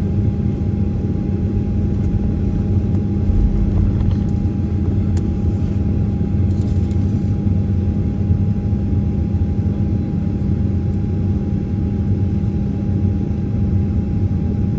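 Steady cabin noise inside a Boeing 737-800 with its CFM56 jet engines running: an even low rumble with a steady hum and a fainter higher tone held throughout.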